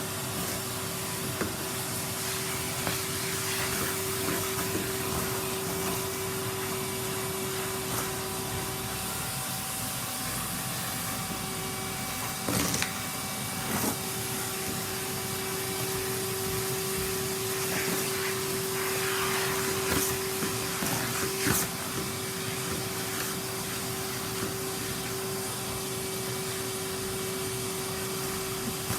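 Henry vacuum cleaner running steadily with an even hum, sucking up wood shavings and dust from the floor. A few brief knocks stand out, around halfway and again about two-thirds of the way in.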